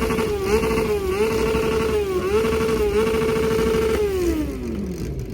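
An engine revved up and held at a steady high pitch for about four seconds, dipping briefly a few times as if bouncing on a rev limiter or 2-step, then falling back down near the end.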